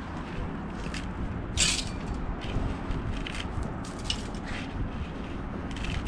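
Irregular crunching and scraping in packed snow, a stroke every half second to a second, over a low steady rumble.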